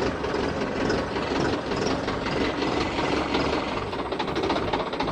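Tractor engine running steadily with an even rhythmic beat, started again after the tractor rolled over and apparently running fine.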